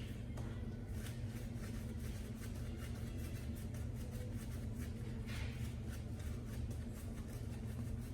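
Merkur 34C double-edge safety razor with a Bic Chrome blade scraping through lathered stubble in short strokes: a crackling run of quick scratches.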